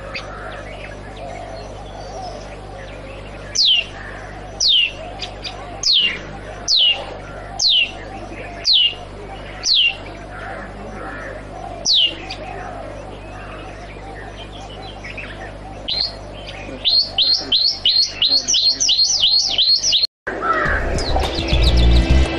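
A bird calling: a string of clear whistled notes, each sliding downward, about one a second, then after a pause a quicker run of short up-and-down notes, about four a second. Music cuts in near the end.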